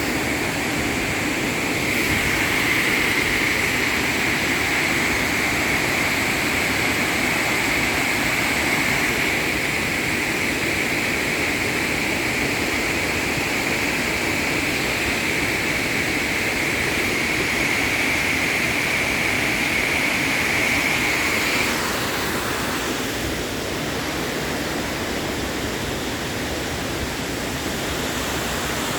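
Waterfall: a steady rushing roar of falling water, easing slightly about twenty seconds in.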